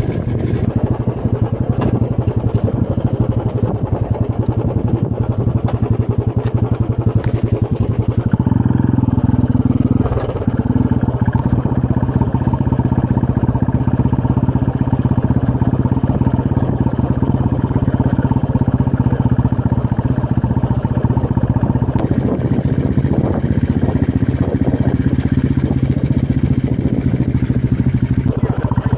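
Motorcycle engine running steadily while riding. The engine note shifts about eight seconds in and dips briefly about ten seconds in.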